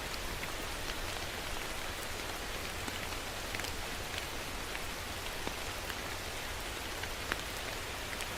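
Steady rain: an even hiss of falling rain with scattered individual drops ticking through it, one a little louder near the end.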